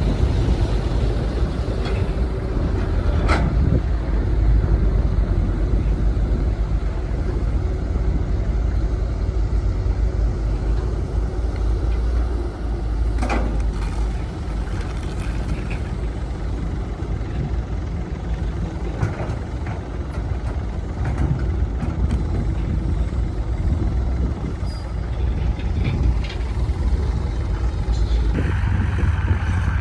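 Diesel engines of heavy earthmoving machinery, a bulldozer and dump truck, running steadily with a few sharp knocks. The engine sound grows louder and deeper near the end.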